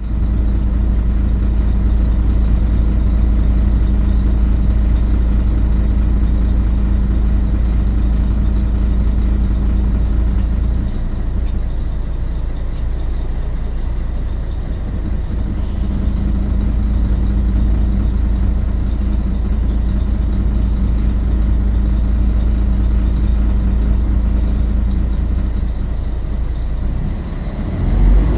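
Scania L113CRL bus's 11-litre six-cylinder diesel engine running steadily. It eases off about eleven seconds in, then pulls again from around seventeen seconds.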